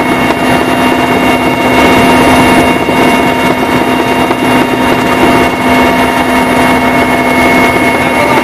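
Loud, steady engine drone with several constant whining tones running through it, unchanging throughout; no blasts are heard.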